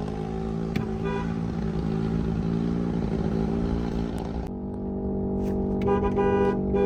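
A motor vehicle engine running at a steady speed. About four and a half seconds in, the sound suddenly turns duller as the hiss above it drops away, while the engine note carries on.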